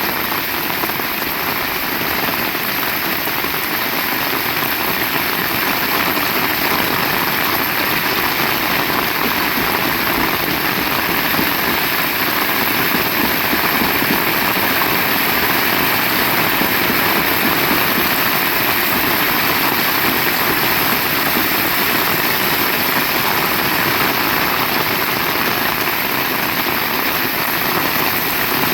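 Heavy rain falling, a dense steady hiss with no breaks.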